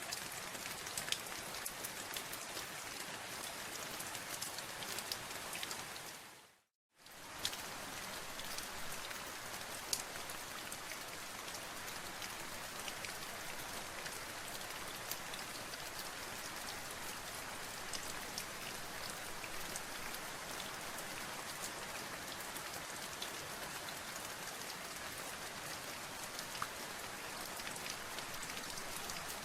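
Steady rain, with many individual drops ticking on a surface. About six and a half seconds in it fades briefly to silence, then comes straight back.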